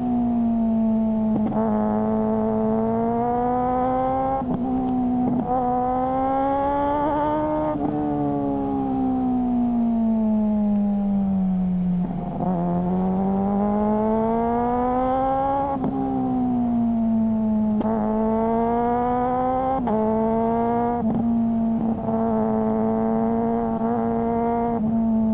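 Suzuki GSR600 inline-four engine through a GPR Ghost exhaust, running under way. Its note climbs and dips with changes in engine speed and is broken by about a dozen sharp, short cuts as it changes gear with a quickshifter. Midway it falls slowly in pitch, then climbs again.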